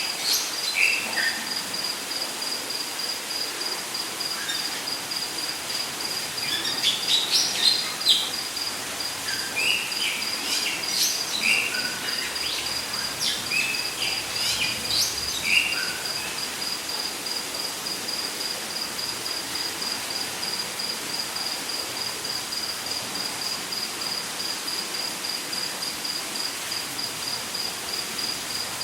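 Rainforest ambience: an insect keeps up a steady, evenly pulsed high trill, while birds give scattered short chirps and whistles that die away about halfway through, over a steady background hiss.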